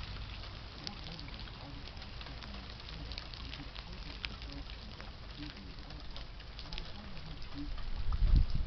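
Light rain pattering, with many small irregular drip ticks over a low rumble. Near the end, louder low buffeting thumps come in.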